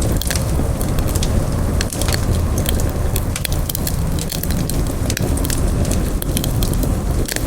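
Campfire crackling, with frequent sharp, irregular pops and snaps over a steady low rush of the flames.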